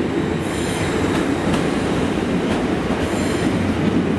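Great Western Railway Intercity Express Train carriages rolling past along the platform: a steady rumble of steel wheels on rail, with a faint high wheel squeal coming and going and a click about once a second as the wheels cross rail joints.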